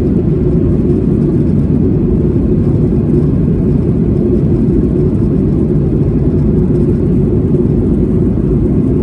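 Steady low engine rumble, as from a vehicle or craft under way, fading out near the end.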